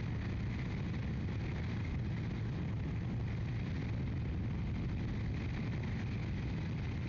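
Motorcycle on the move: a steady rush of wind and road noise with engine hum, unchanging in level.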